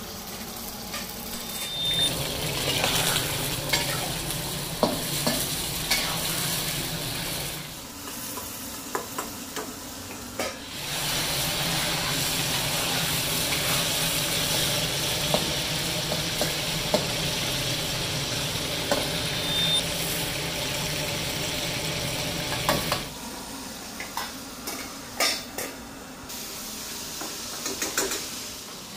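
Chicken pieces frying in hot oil in a karahi, sizzling steadily, with a metal spatula clinking and scraping against the pan as they are stirred. The sizzle is louder through long stretches and drops back for a few seconds about a third of the way in and again near the end.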